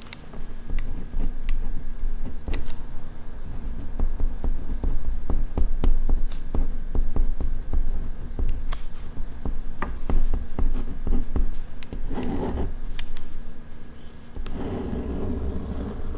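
Ballpoint pen writing on paper, a dense run of small taps and scratching strokes over a low rumble from the desk. About twelve seconds in, and again near the end, come short, louder patches of brushing noise.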